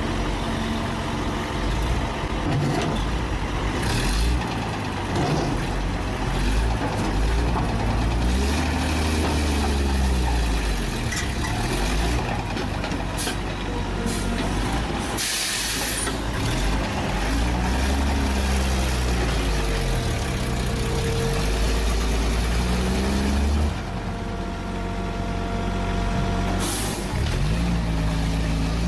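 Heavy truck diesel engines running and revving up and down several times. A short loud burst of air-brake hiss comes about halfway through, and a briefer one near the end.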